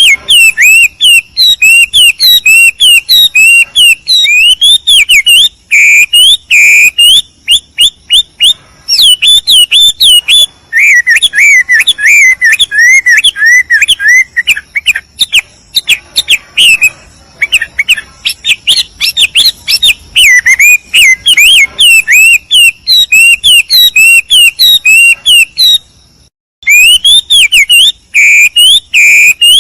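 A songbird singing loudly and almost without pause: a fast, varied stream of high whistled and chirping notes, broken once briefly near the end.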